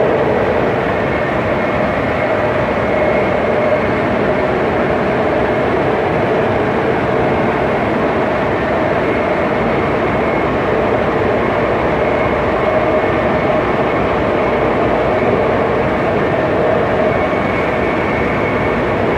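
BART train running steadily: a loud, even rumble of wheels on rail with a constant whine over it.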